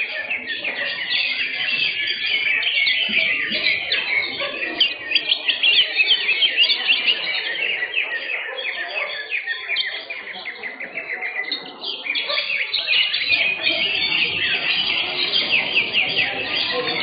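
Cucak hijau (green leafbird) singing a loud, unbroken stream of rapid chirps and trills, with a short lull about ten seconds in.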